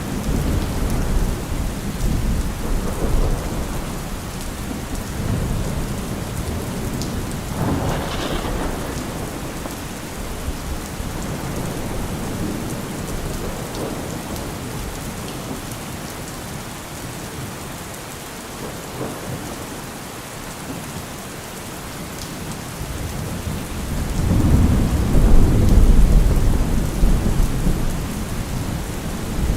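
Steady rain falling with thunder rumbling in low, rolling swells; the biggest, loudest roll of thunder comes near the end.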